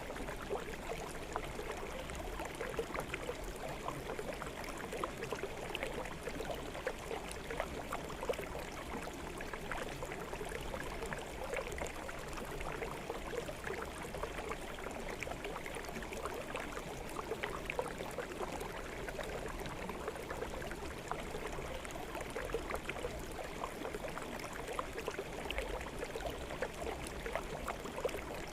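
Forest stream flowing steadily over rocks: a continuous rushing and gurgling with small splashes all through.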